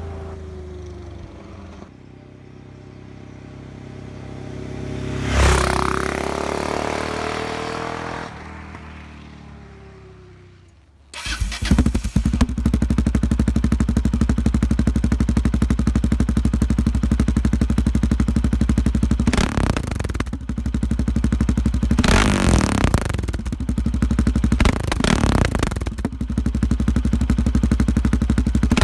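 Yamaha XT660Z Ténéré single-cylinder engine: the motorcycle rides past, its pitch sliding down as it goes away. Then the engine runs loud and steady up close, with several brief surges in level.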